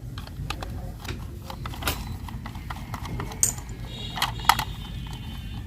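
Scattered light clicks and taps of plastic toy parts and small screws being handled and fitted together, with a few sharper clicks near the middle.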